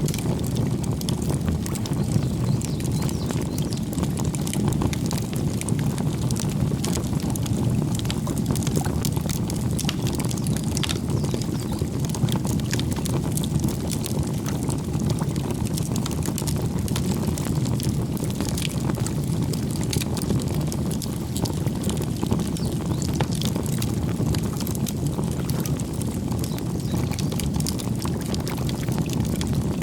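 Campfire burning, with a steady low rumble of flame and frequent sharp crackles and pops from the burning wood.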